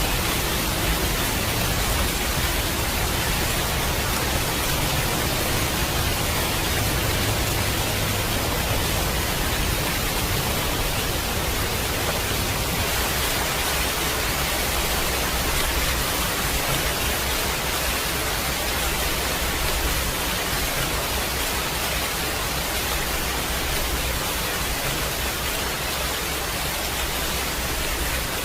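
Steady heavy rain, an even unbroken hiss, with a low rumble underneath that is stronger in the first half.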